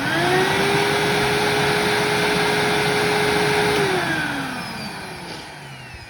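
2003 Hoover WindTunnel upright vacuum's motor switched on, whining up to speed almost at once and running steadily with a rushing airflow for about four seconds, then switched off and winding down with a falling whine that fades out.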